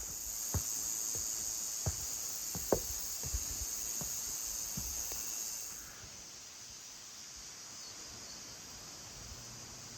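Steady high-pitched insect chorus with scattered light knocks, cutting off abruptly about six seconds in, leaving a faint steady hiss.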